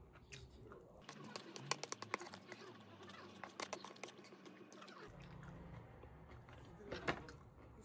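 Faint sharp clicks and taps, many in quick succession from about one to five seconds in, then a louder cluster near the end.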